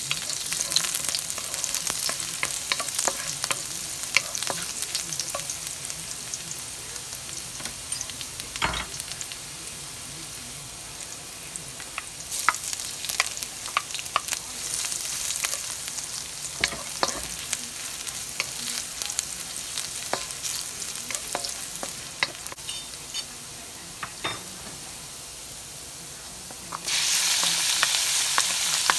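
Chopped garlic, then julienned ginger, sizzling in hot olive oil in a wok, with a wooden spatula stirring and clicking against the pan. Near the end the sizzle jumps suddenly louder as thinly sliced raw beef goes into the oil.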